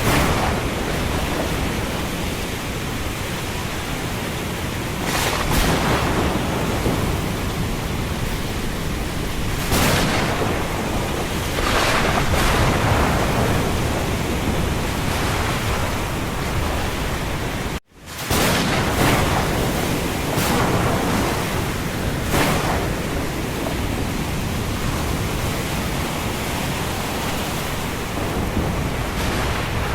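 Thunderstorm ambience: a steady wash of rain and wind with several brief, louder surges. The sound cuts out for an instant about eighteen seconds in.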